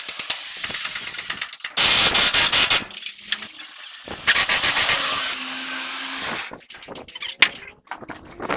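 Workshop tool noise: rapid clicking, then two loud bursts of a power tool about two and four seconds in, followed by scattered knocks and scraping of metal parts.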